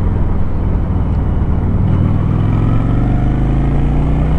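Motorcycle engine pulling under acceleration, its pitch rising steadily through the second half, over heavy wind and road noise on the microphone.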